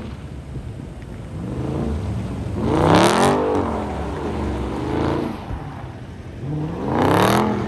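A car engine revved hard twice, its pitch climbing and falling back each time, over a steady engine rumble.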